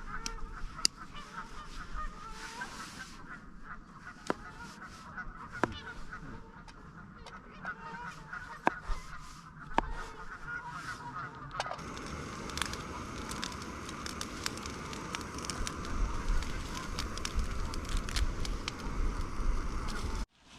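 Geese honking, with a few sharp clicks; a steady hiss joins after about twelve seconds.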